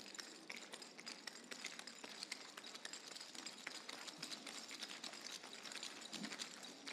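Faint, scattered metallic clicks of clogging taps on a wooden stage floor, irregular and many, over the hiss of a quiet theatre.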